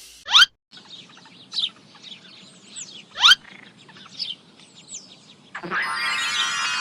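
Birds chirping: short whistled calls that sweep upward in pitch, the loudest two about half a second and three seconds in, then a longer, fuller call starting near the end.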